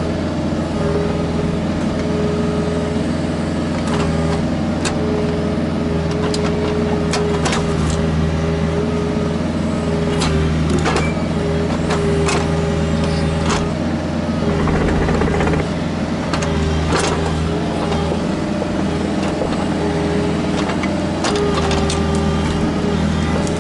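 Kubota KX121-3 mini excavator's diesel engine running steadily under work, with a hydraulic whine that rises and drops away repeatedly as the controls are worked. Scattered sharp knocks and clanks sound throughout.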